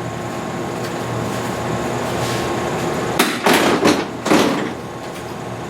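Compressed air hissing steadily as it bleeds off from the Cessna U-3B's air-driven landing-gear system. About three seconds in come three short, loud bursts of air or mechanical clunks from the gear mechanism.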